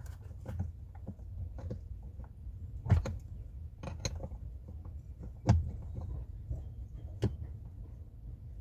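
Irregular metallic clicks and knocks of hand tools working on a brake line fitting, with two louder knocks about three and five and a half seconds in.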